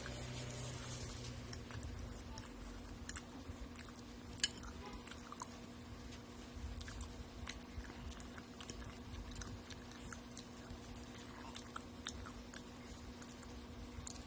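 Close-up chewing and biting sounds of someone eating, with scattered light clicks of a spoon and fork against a glass bowl, the sharpest about four and a half seconds in. A steady low hum runs underneath.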